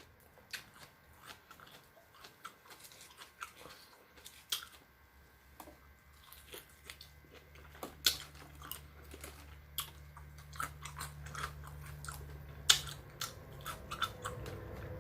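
Close-up biting and chewing of crispy fried lemon pepper chicken wings: irregular wet crunches and smacks. A faint low hum runs underneath through the middle of the stretch.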